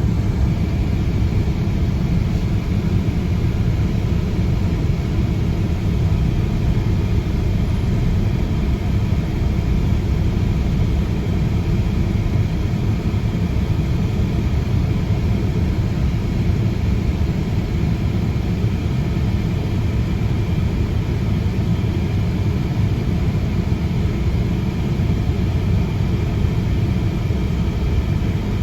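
Steady low vehicle rumble, unbroken and even in level.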